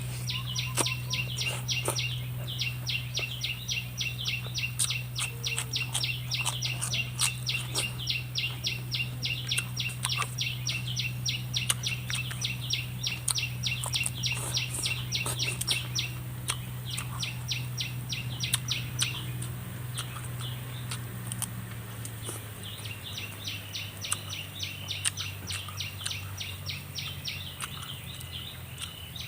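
Fast, even chirping, about six chirps a second, that stops about sixteen seconds in and starts again about six seconds later, over a steady low hum and scattered sharp clicks.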